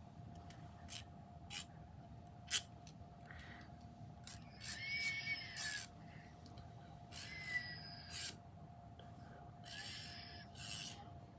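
A measuring tool handled close to the microphone: a few light clicks, the sharpest about two and a half seconds in, then four short scraping, sliding strokes in the second half, over a faint steady hum.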